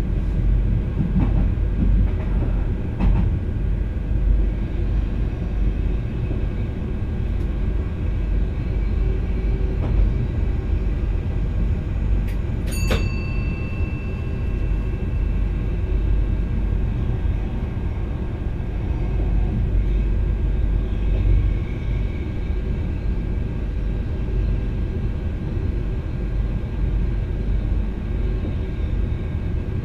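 Steady running rumble of a VIRM double-decker electric train heard inside its driver's cab, with a short high ringing tone about halfway through.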